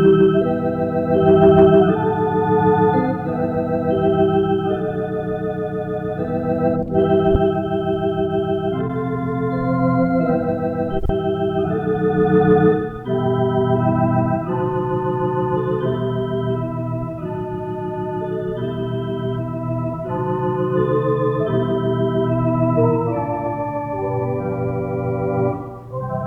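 Electric organ playing an instrumental passage of sustained chords under a moving melody, the notes changing every half second or so.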